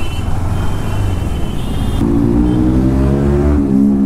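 KTM RC 390's single-cylinder engine running at low revs, with road and traffic noise. Its note settles into a steady hum about halfway through, then drops near the end as the bike slows to a stop.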